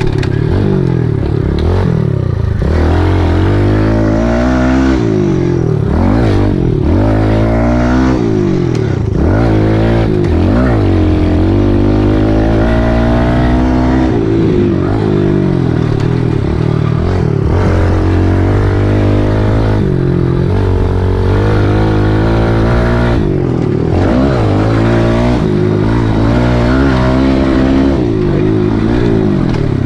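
Kawasaki KLX110L pit bike's small single-cylinder four-stroke engine being ridden, its pitch rising and falling over and over as the throttle is opened and closed and it shifts through the gears.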